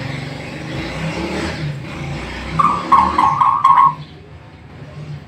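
A motor vehicle running past, with four short high-pitched beeps in quick succession about three seconds in.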